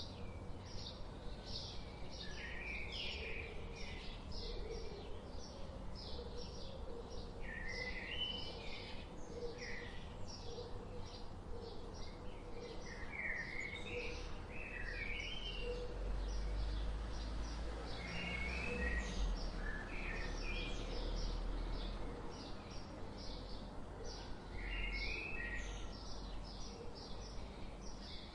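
Several birds chirping without a break: many quick, high chirps overlapping, with a short warbling phrase coming back every few seconds. A low rumble sits underneath and grows louder for a few seconds in the middle.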